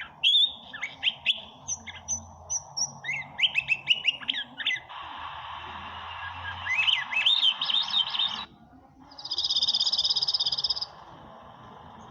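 Songbirds singing: quick whistled phrases that rise and fall, in several spliced clips with abrupt changes of background. Near the end comes a loud, evenly pulsed buzzing trill lasting about a second and a half.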